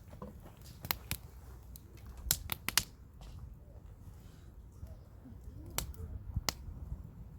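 Wood campfire crackling, with sharp irregular pops from the burning firewood; the loudest run of pops comes about two and a half seconds in, with a few single snaps later. A steady low rumble lies underneath.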